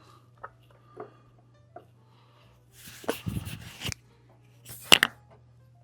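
Small taps and clicks of metal tweezers and a tiny screw against the plastic shell of a remote controller, with a noisy rustle about three seconds in and two sharp clicks close together about five seconds in, the loudest sounds. A steady low electrical hum runs underneath.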